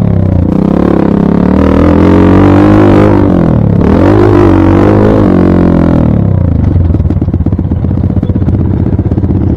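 Dirt bike engine revving, its pitch rising and falling twice, then dropping about six seconds in to a low, even putter.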